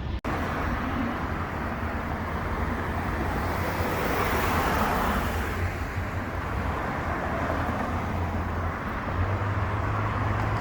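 Street traffic: steady road noise of passing cars, swelling as a vehicle goes by about four to five seconds in. The sound cuts out for an instant just after the start.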